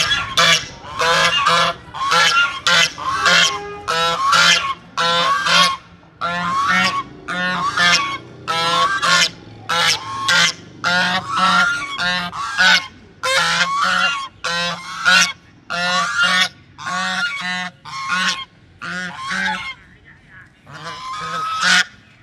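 A pair of domestic waterfowl honking over and over in short, harsh calls, about one or two a second, with a brief lull near the end. They are calling because a person has come into sight.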